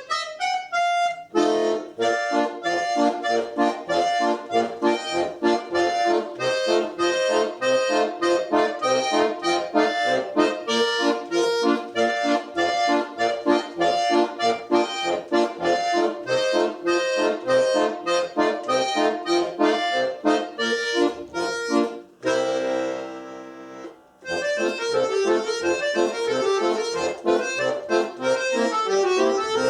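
Solo accordion playing a fast, lively Russian folk dance tune in quick repeated notes and chords. About 22 seconds in the playing stops on one held chord that fades away, and the quick playing starts again about two seconds later.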